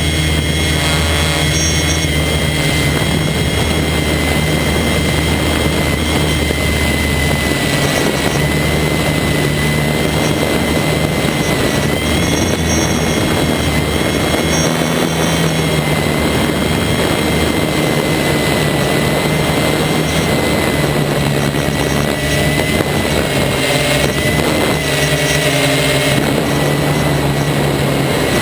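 DJI F450 quadcopter's motors and propellers running in flight: a loud, steady buzz with a high whine that wavers slightly in pitch as the throttle changes.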